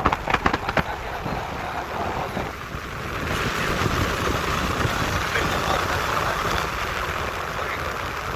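Motorcycle riding noise: a steady rush of wind and road noise that gets brighter and louder about three seconds in.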